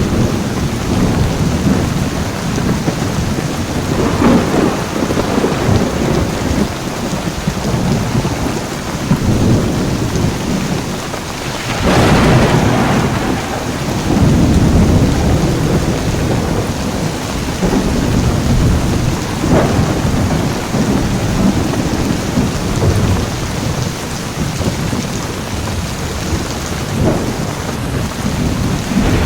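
Heavy rain pouring steadily through a thunderstorm, with thunder rumbling low throughout and a sharper clap about twelve seconds in.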